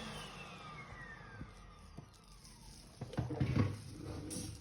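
Siemens vacuum cleaner's newly fitted motor spinning down after being switched off, its whine falling steadily in pitch as it coasts to a stop. A few clunks of handling follow about three seconds in.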